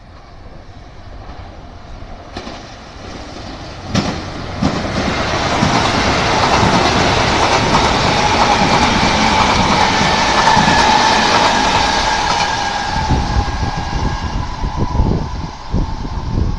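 Kintetsu 6620 series semi-express train passing the station at speed on the through track. The rumble of wheels on rail, with a steady whine, swells from about four seconds in. Near the end it gives way to the clack of wheels over rail joints as the cars go by.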